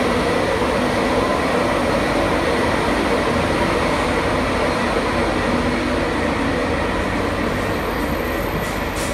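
Class 91 electric locomotive pulling an InterCity 225 train out of the platform, with its Mark 4 coaches rolling past close by: a steady rumble and hum with a faint high whine. The sound eases slightly as the locomotive draws away.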